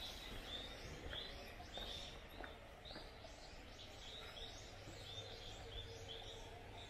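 A bird chirping over and over, short high notes about twice a second, over faint steady outdoor background noise.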